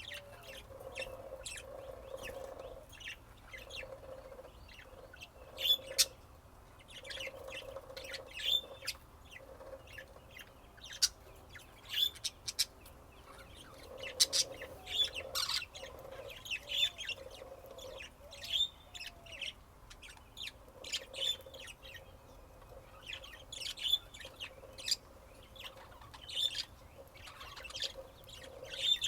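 Budgerigars chirping and chattering: a stream of short, sharp, irregular chirps over a softer running warble.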